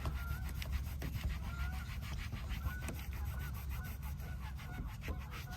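A bird calling over and over in short, high chirps, over a steady low rumble and rubbing noise.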